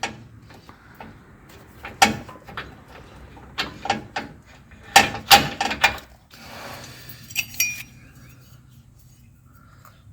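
Hand tools and steel parts clinking and knocking, about six sharp metallic strikes spread over a few seconds, as nuts come off a front differential mounting bracket, followed by a short scrape with a brief ringing tone.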